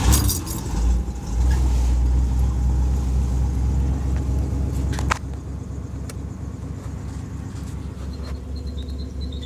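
1986 Cadillac Fleetwood Brougham's carbureted V8 catching on a cold start at 26 degrees, after the gas pedal was pumped to set the choke, then running at a loud, fast cold idle. About five seconds in there is a click and the engine settles to a quieter, steady idle.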